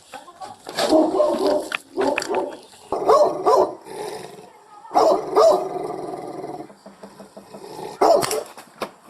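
A dog barking and snarling aggressively in a run of loud bursts, with a longer drawn-out growling snarl about five seconds in and another sharp bark near the end.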